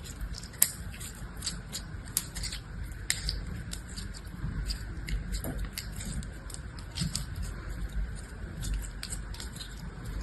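Irregular crisp clicks and crackles of close-up handling of soft material, a few each second, over a low rumble.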